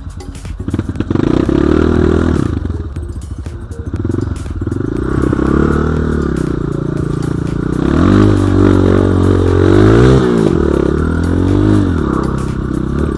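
Dirt bike engine revving up and down over and over, its pitch rising and falling with the throttle, loudest about two-thirds of the way through, with some clatter.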